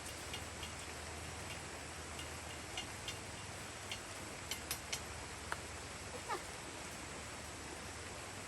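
Steady rain falling, with scattered drips ticking. A brief animal call drops in pitch about six seconds in.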